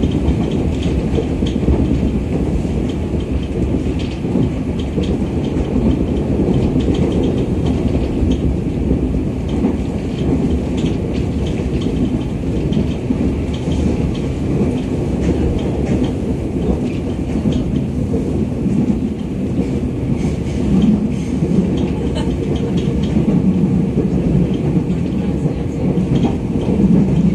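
Cabin sound of a JR 211 series electric train running at speed: a steady rumble of wheels on rail with scattered clicks from the track. A low hum comes in a few times during the last several seconds.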